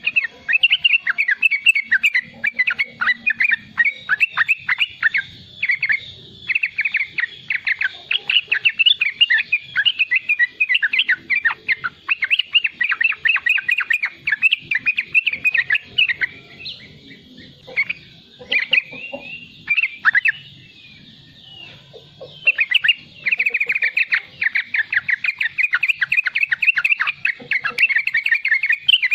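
Young yellow-vented bulbul (trucukan) giving its rapid, chattering 'riwik' call in long fast runs, broken by a couple of short pauses past the middle.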